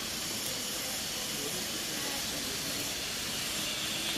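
Chicken satay skewers sizzling over a charcoal grill: a steady, even hiss.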